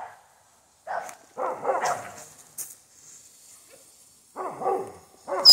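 Dogs barking in short, repeated bursts at fireworks, several barks bunched together about a second and a half in and again near the end. A sharp bang comes right at the close.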